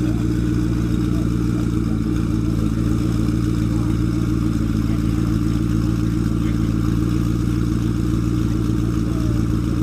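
Turbocharged McLaren engine idling steadily after startup, a deep even running note with no revs.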